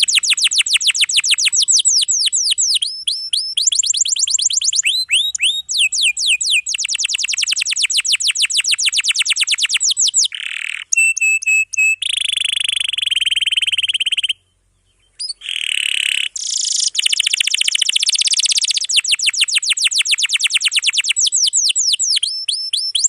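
Domestic canary singing a long, fast rolling song: rapid trills of repeated high sweeping notes, broken by a few held whistled notes and a short pause about two-thirds through.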